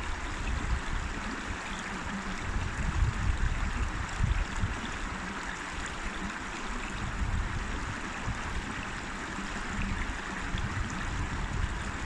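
River water flowing steadily in an even rushing noise, with irregular low rumbles underneath.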